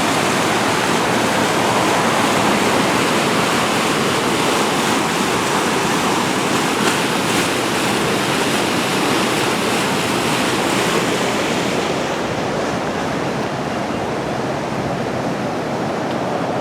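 Floodwater rushing through under the mill pond bridge: a loud, steady rush of water that eases slightly about three quarters of the way in.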